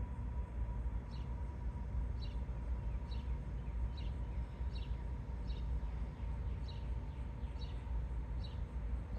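A bird repeating a short, high, falling chirp about once a second, over a steady low rumble.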